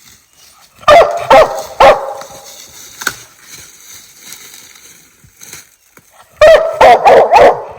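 Treeing Walker coonhound barking: three loud barks about a second in, then a quick run of about four more near the end.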